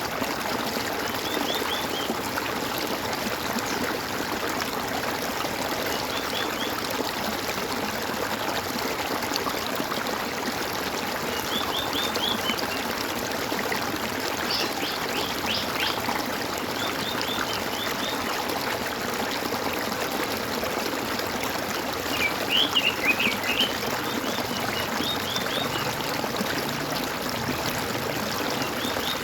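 Water gurgling and trickling steadily, with a songbird breaking in every few seconds with short bursts of quick, high chirps.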